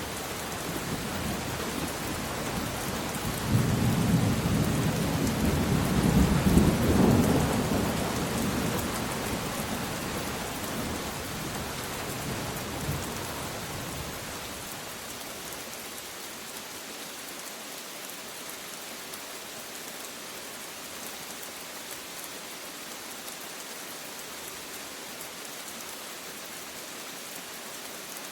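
Steady rain with a long roll of thunder. The rumble swells a few seconds in, peaks, then dies away over the next several seconds, leaving only the hiss of the rain.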